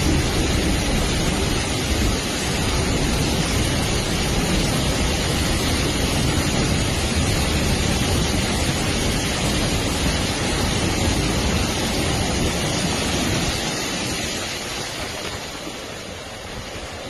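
Heavy rain pouring down, a dense steady rushing hiss that eases off somewhat near the end.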